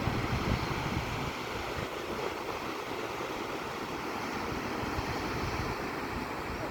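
Sea surf washing on the shore, with wind buffeting the microphone as a low rumble that eases after about a second.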